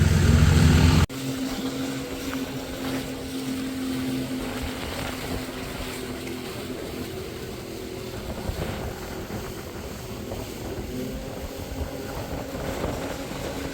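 Motorboat engine running at a steady pitch. A loud low rumble in the first second cuts off abruptly.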